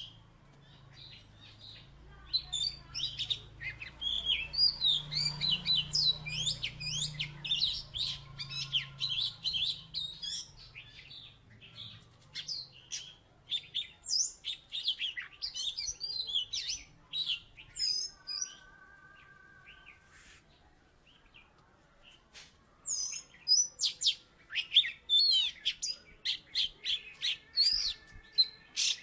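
Oriental magpie-robin (kacer) singing vigorously in long runs of rapid, varied whistles and chirps, with a lull of a few seconds past the middle before the song picks up again.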